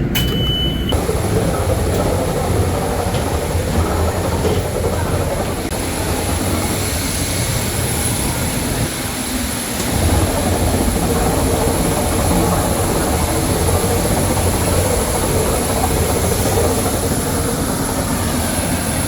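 Steady, loud mechanical rumble with a constant high-pitched whine: jet airliner and airport ground-equipment noise heard while boarding, with a brief dip about halfway through.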